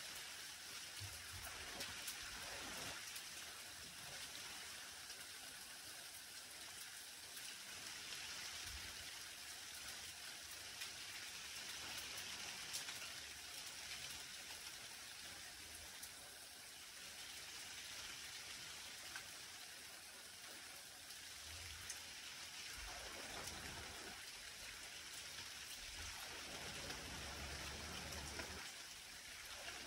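Light rain falling on garden foliage and ground: a faint, steady hiss with scattered drop taps.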